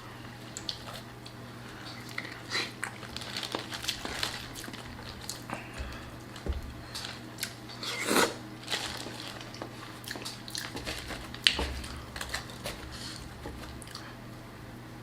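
Close-miked eating: a person biting and chewing, with many quick wet smacks and sharp little clicks, the loudest about halfway through and again near the end, over a faint steady low hum.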